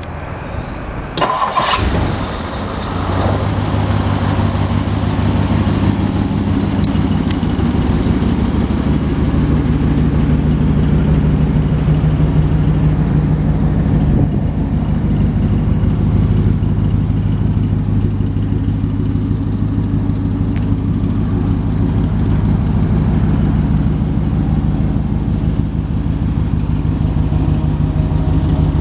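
1959 Lincoln Continental Mark IV's 430 cubic-inch V8 being started: a brief burst of starter noise about a second in, then the engine catches and settles into a steady, even idle.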